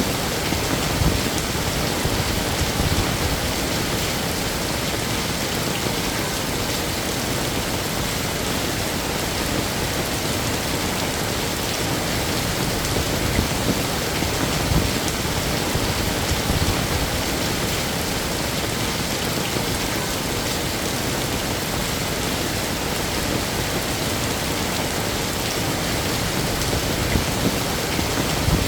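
Heavy rain falling steadily, a dense even hiss of drops on surfaces, with a few brief low thumps.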